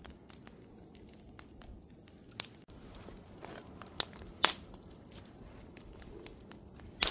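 Wood fire crackling: a low steady hiss with scattered sharp pops, a few of them loud.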